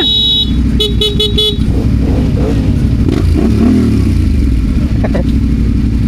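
Motorcycle horn sounding, a long blast followed by four quick toots, over a motorcycle engine running steadily.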